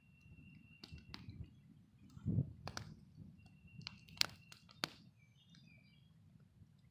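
Birds singing at dawn: a thin, steady whistled note held for about a second, twice, and short higher chirps, over several sharp clicks and a low background rumble.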